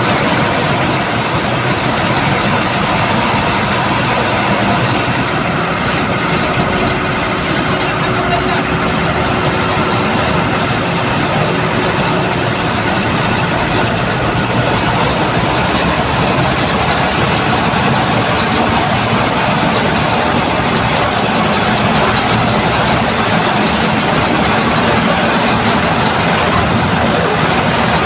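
Heavy truck engine running steadily, a loud, even drone.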